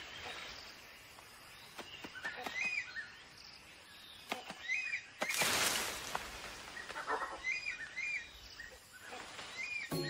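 Rainforest ambience: a bird gives a short chirp again and again, mostly in pairs, over faint background calls. About halfway through there is a brief, louder rush of noise like foliage being shaken.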